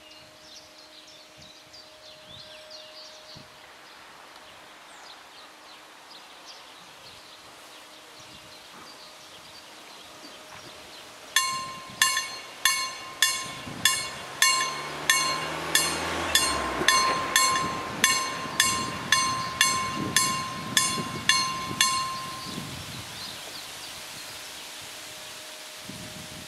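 Level-crossing warning bell (KLD-40 series) ringing as the crossing closes: about twenty sharp strikes, roughly two a second, starting about eleven seconds in and stopping about ten seconds later. A low hum rises in pitch underneath midway through the ringing, with birds audible before the bell starts.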